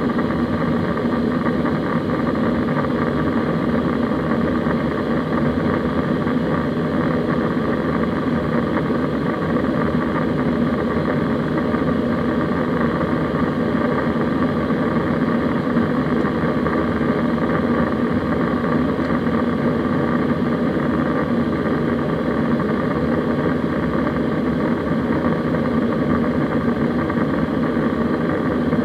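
Steady cabin noise of an Airbus A320 in flight: a constant engine and airflow drone with several fixed hum tones and no change in pitch or level.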